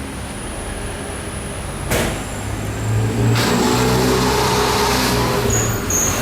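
Car engine running on a chassis dynamometer during a dyno run. A short knock comes about two seconds in, then the engine drone builds and holds louder under load.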